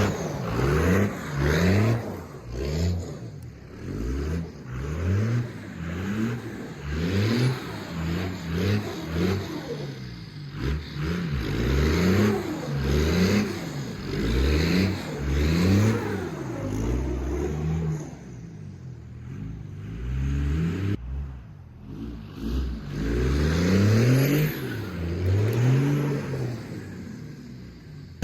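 5.9 Cummins inline-six turbo diesel engine being revved, its pitch rising and falling again and again, with a short lull about two-thirds of the way through.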